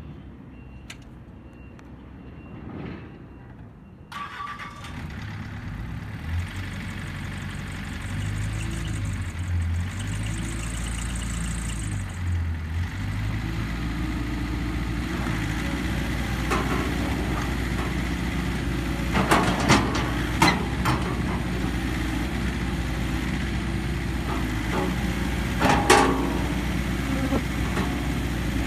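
Hitachi ZX135US-3 excavator's diesel engine starting about four seconds in, then running steadily with a low rumble, with a few sharp metallic knocks later on.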